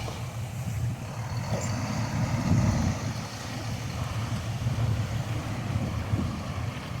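Heavy diesel engine of earthmoving machinery running steadily as a low rumble, swelling briefly about two and a half seconds in.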